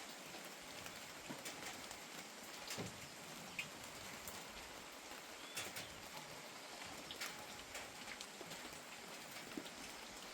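Steady gentle rain falling, with scattered single drops tapping close by.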